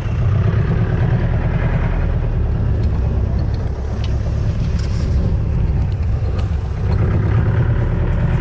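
Vehicle engine running steadily while driving, heard from on board as a low, continuous engine sound.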